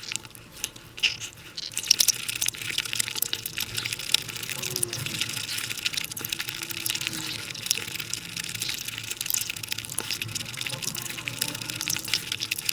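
Close-miked wet chewing and lip-smacking of someone eating cake or sweets, played at five times speed so the mouth sounds run together into a dense, wet crackle. The crackle grows denser about two seconds in.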